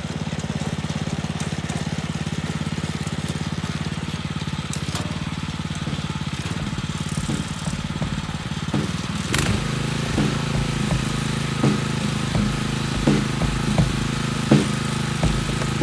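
Husqvarna front-tine garden tiller's small gas engine running steadily. About nine seconds in it gets louder and the tines start working the ground, with irregular knocks.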